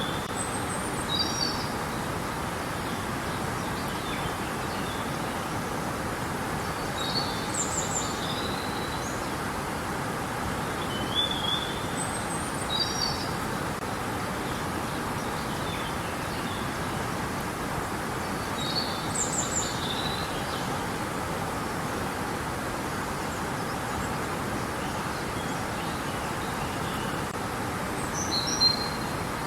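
Steady rush of flowing river water, with a small bird singing short, high chirping phrases every few seconds over it.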